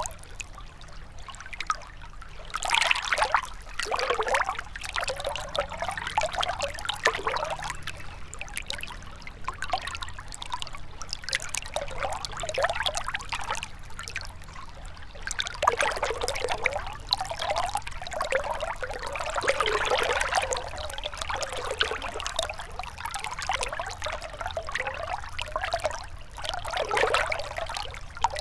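Shallow river water trickling and burbling over stones, a continuous splashy flow that swells and eases every few seconds.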